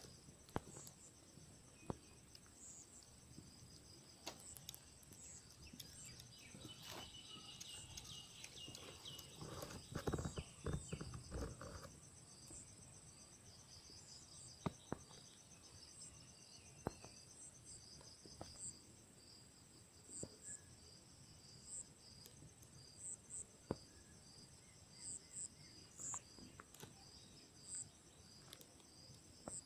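Faint outdoor insect chorus: crickets chirping steadily in a high, pulsing trill, with scattered clicks and a few seconds of louder rustling and knocks about ten seconds in.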